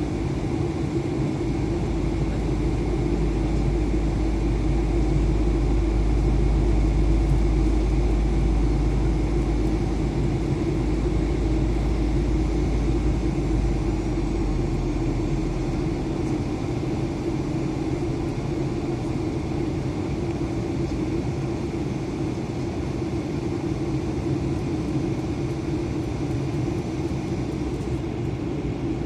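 Steady cabin noise inside an Airbus A320 in flight: the even hum of the engines and rushing air. A deep low rumble underneath eases off about halfway through.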